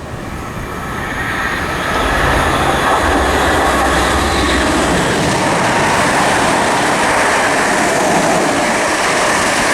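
Class 321 electric multiple units passing through the station at speed without stopping: a loud, steady rush of wheels on rail and air that builds over the first two seconds and then holds.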